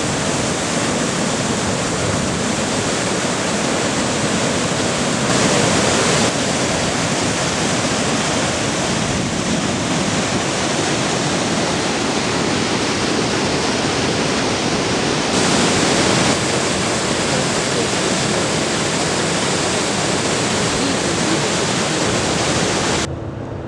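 Steady, loud rushing roar of Iguazu Falls' falling water, swelling briefly twice and cutting off suddenly near the end.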